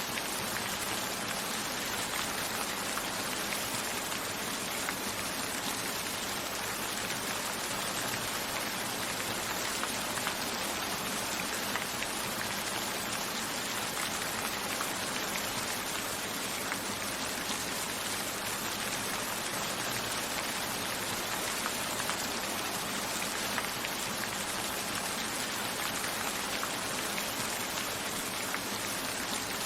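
Steady rain falling, a constant hiss with fine pattering drops, with raindrops striking a window.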